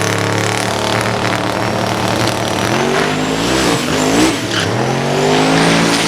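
Drag-racing truck's engine held at high revs on the starting line, spooling up against a hot torque converter. The pitch wavers and dips about two thirds of the way through, then climbs again, with a faint high whine rising over it.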